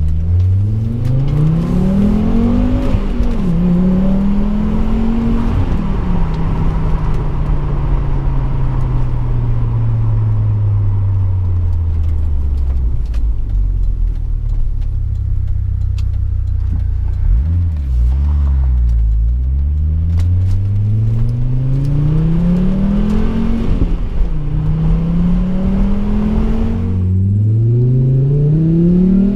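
Volvo V70 R's turbocharged five-cylinder engine and exhaust pulling hard: the note climbs, dips at a gear change about three seconds in, climbs again, then falls away slowly over some ten seconds as the car slows. From about twenty seconds in it climbs through another gear change and is rising again at the end.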